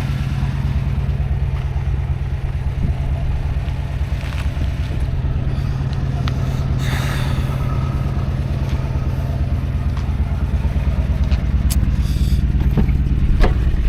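Truck engine idling steadily, a low, even hum, with a short noisy swell about seven seconds in.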